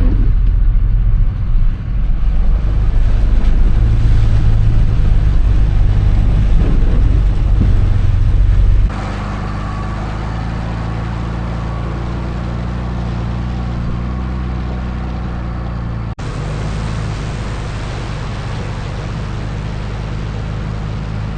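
Off-road truck engine running steadily while driving a trail, a heavy low hum. It changes abruptly about nine seconds in to a quieter, steadier run, with a momentary dropout around sixteen seconds.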